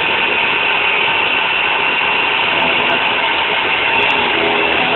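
Prototype milling setup's spindle motor running steadily with a high whine as the cutter cuts a 12 diametral pitch worm on a shaft.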